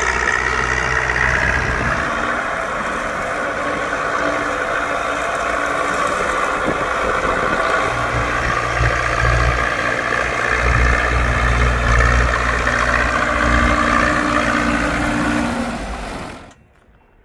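Zetor tractor diesel engine running steadily under load while plowing, with a low rumble that rises and falls. The sound cuts off abruptly near the end.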